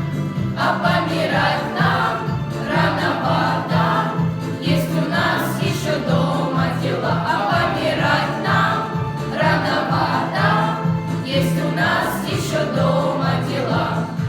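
A class of schoolchildren singing together over a backing track with a steady, pulsing bass line.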